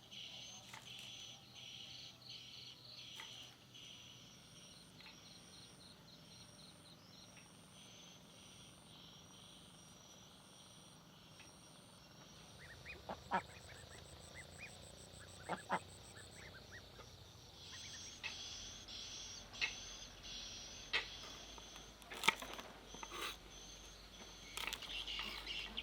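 Outdoor countryside ambience: faint high-pitched bird calls and insect chirps repeating in steady series, with a few sharp clicks and knocks in the second half.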